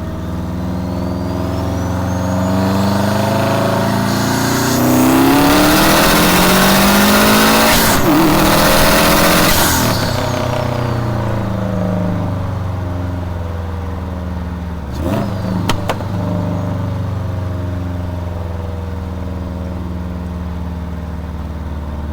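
Modified Subaru WRX's turbocharged flat-four engine revving up, its pitch climbing steadily for about eight seconds towards nearly 7,500 rpm, then dropping back as the throttle closes. A few sharp pops come about fifteen seconds in, after which the engine runs on at a steady lower note.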